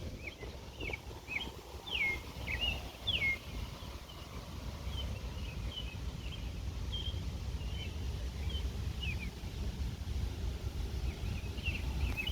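Songbirds chirping: many short, quick notes sliding downward, busiest in the first few seconds and again near the end, over a steady low rumble.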